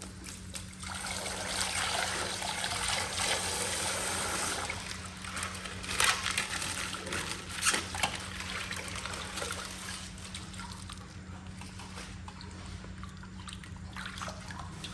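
Coloured water trickling and pouring out of a plastic ice-pack bag that has been popped open, strongest in the first few seconds, with a few sharp clicks partway through. A steady low hum runs underneath.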